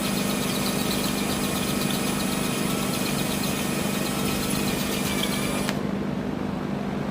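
Electric drill running steadily while boring a hole through the steel rear trunnion of an AK-pattern pistol, a continuous motor hum with a high hiss. About five and a half seconds in the high hiss cuts off suddenly and the low hum continues.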